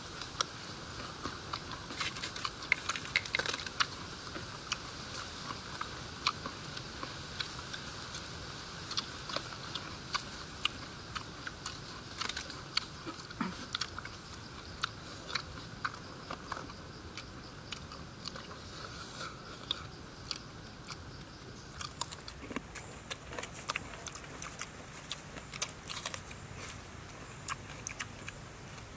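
Close-up chewing and biting: many short crisp crunching clicks as raw food such as carrot slices is bitten and chewed. A steady high-pitched buzz runs underneath.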